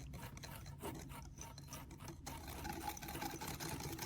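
Whisk stirring and scraping half-cooked lemon curd around a bowl between microwave heatings, a faint run of quick, irregular rasping strokes.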